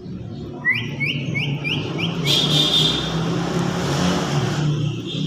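A parrot calling: a quick series of about six rising chirps, then a harsh screech lasting about two seconds, over a steady low rumble.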